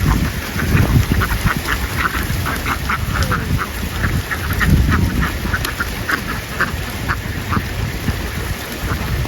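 A flock of domestic ducks quacking: many short, overlapping calls in quick succession over a steady low rumble.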